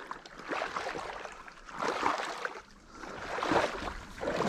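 Water swishing around neoprene waders as a person wades through deep water, swelling with each stride about every second and a half.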